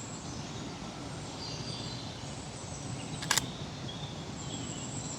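Nikon Z50 II shutter firing once about three seconds in, a brief double click, over quiet woodland ambience with faint bird chirps and a thin, steady high tone.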